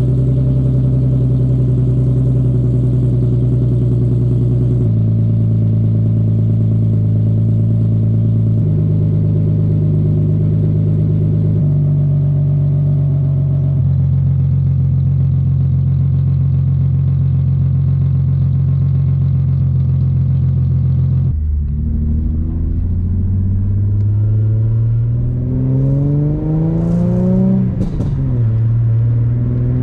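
Infiniti G37's 3.7-litre V6 through an ISR single-exit catback exhaust with resonated test pipes, idling steadily after a cold start, its idle pitch dropping in a few steps. About two-thirds of the way in it is revved in rising and falling sweeps, climbing highest near the end.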